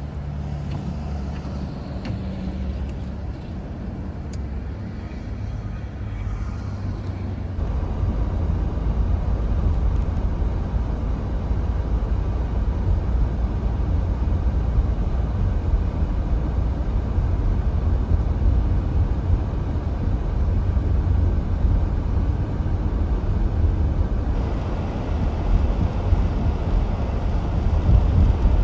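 Steady low rumble of vehicle and road noise, stepping up louder about seven seconds in and brightening again near the end.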